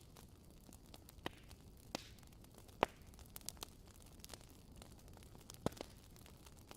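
Faint wood fire crackling: irregular sharp pops over a low steady hiss, the loudest about three seconds in and again near six seconds.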